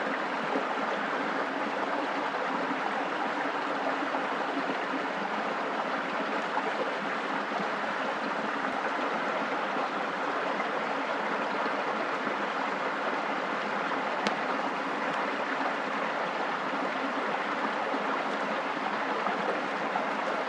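Steady rushing of water, even and unbroken, with a single faint click about fourteen seconds in.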